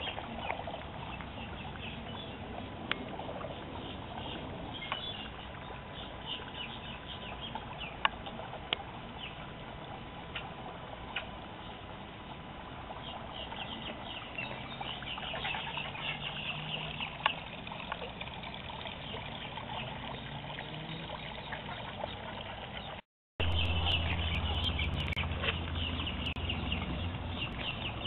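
Outdoor ambience with small birds chirping repeatedly in the background and a few sharp clicks. After a cut about 23 seconds in, the background grows louder and a low steady hum joins it.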